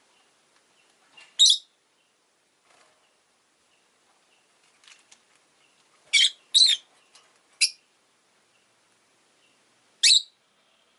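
Rosy-faced lovebird giving short, shrill chirps: one about a second and a half in, a quick run of three between about six and eight seconds, and one more near the end, with a few faint calls between.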